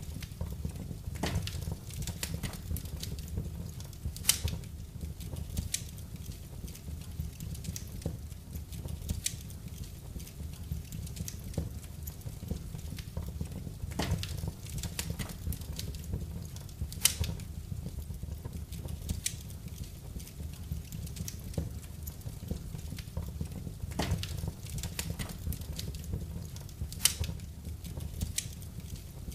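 Wood fire burning in a fireplace: a steady low rumble of the flames with irregular crackles and pops, a few of them louder and sharper.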